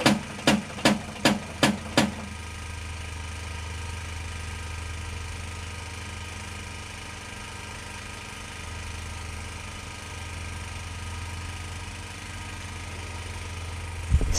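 A piezo igniter on a gas-powered refrigerator clicked six times in quick succession, about two and a half clicks a second, while the burner is being lit. A steady engine-like hum runs underneath.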